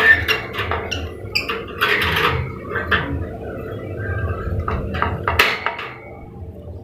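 Scattered clicks, knocks and short rustles of a lovebird being handled and put into a nest box, the loudest knocks near the start and about five and a half seconds in, over a faint steady hum.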